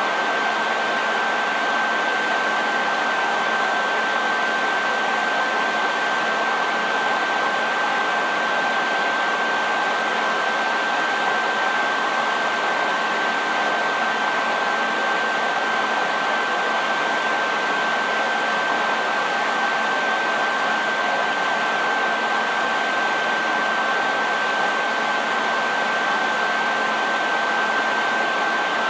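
Hair dryer running steadily: an even rush of blown air with a constant high whine from its motor and fan, unchanging throughout.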